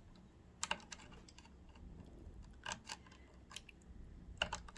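Light clicks and taps, a few scattered singly and in small clusters, of tools and small metal parts being handled on a sewing machine under repair.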